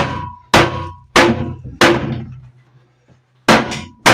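Heavy blows knocking apart a broken wooden TV stand cabinet: four loud impacts about two-thirds of a second apart, then one more after a pause.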